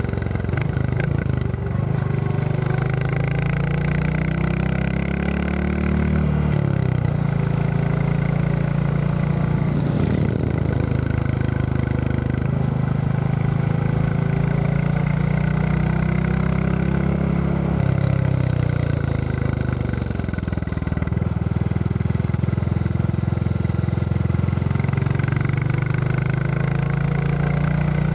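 Royal Enfield Classic 350's single-cylinder four-stroke engine thumping along under way, its note climbing and dropping back in pitch several times with the throttle, over steady wind and road hiss.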